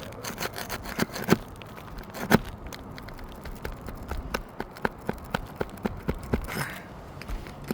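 Sharp, irregular clicks and knocks from a roof snake prying nails out from under old three-tab asphalt shingles, with two louder knocks early on and a quicker run of taps about four to six and a half seconds in.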